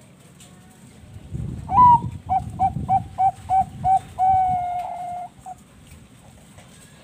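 Zebra dove (Bangkok perkutut) cooing its song: a higher opening note, a quick run of about seven short coos, then one long drawn-out coo.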